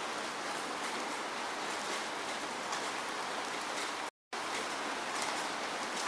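Steady falling rain: an even hiss with scattered crisp drop ticks. About four seconds in, the sound drops out to complete silence for a split second, then resumes.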